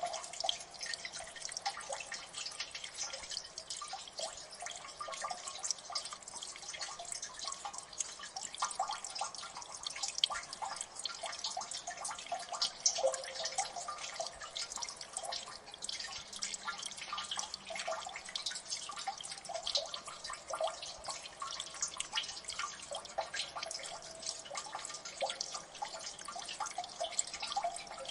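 Water dripping in a gully: many drops falling close together at an irregular pace, some plinking with a short pitched note.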